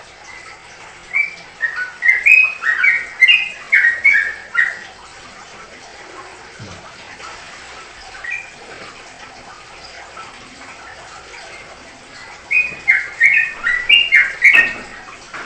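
A songbird singing two phrases of quick chirping notes that jump up and down in pitch, one about a second in and another near the end, over a faint steady hiss.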